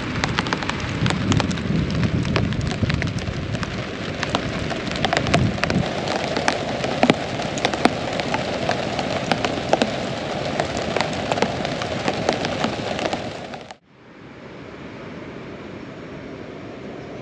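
Heavy rain falling, with a dense patter of sharp, close drop impacts over a steady rush. Near the end it cuts off abruptly to a quieter, even hiss.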